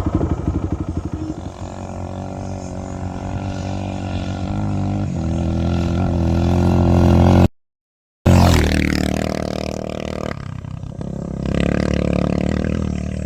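Honda XR650R single-cylinder four-stroke dirt bike engine running under way, getting louder over several seconds. It breaks off abruptly for under a second just past the middle, then runs on with a sudden change in tone a couple of seconds later.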